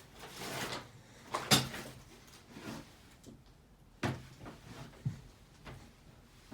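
Hampton Bay Cameron II ceiling fan running, its bearing giving off irregular clicks and knocks, the loudest about one and a half seconds in and another sharp one about four seconds in: the sign of a worn motor bearing.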